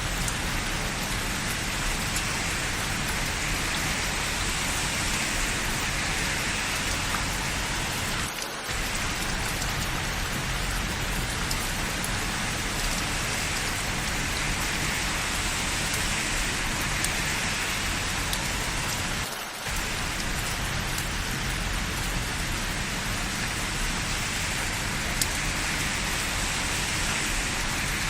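Steady rain falling, an even hiss of drops. It dips for a moment twice.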